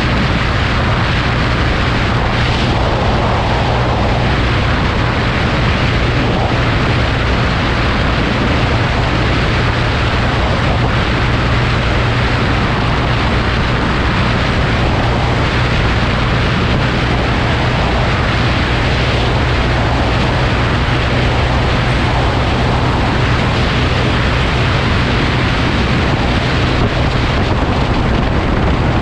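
Steady wind rush on the microphone over a constant low engine drone, unchanging throughout.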